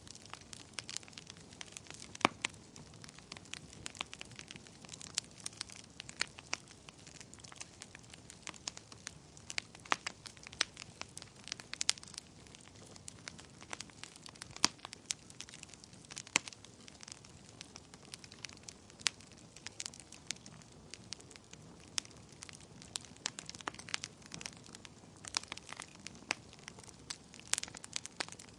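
Wood fire burning in a fireplace: a soft steady hiss with irregular sharp crackles and pops, a few of them much louder than the rest.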